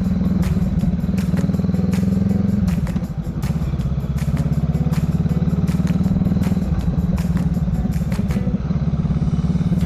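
Honda Rebel 500's parallel-twin engine running steadily under way. About three seconds in the engine note briefly drops and shifts, then settles again. Frequent short clicks sit over it.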